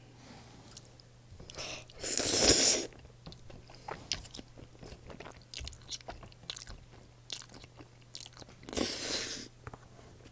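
Close-miked eating of crispy fried pork cutlet: two loud crunching bites, about two seconds in and near the end, with chewing and small mouth clicks between them.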